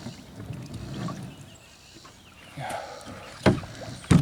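Kayak being pulled in to the bank, with quiet shuffling and then two sharp knocks near the end, about two-thirds of a second apart, as the hull bumps against the landing.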